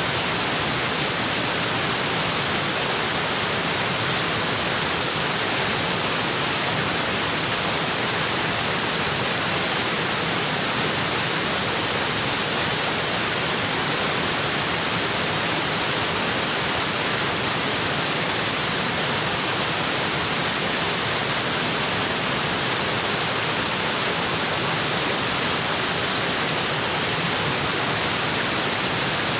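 Waterfall in a tropical forest, water pouring steadily onto rocks in an unbroken rush.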